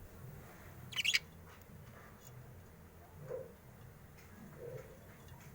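A lovebird giving one short, sharp, high chirp about a second in, followed by a few soft low peeps, over a faint low hum.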